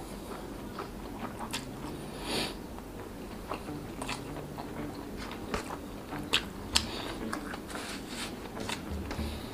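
Close-miked mouth sounds of a man eating rice with sardines in sauce by hand: chewing with many short wet smacks and clicks, a few sharper ones a little past the middle.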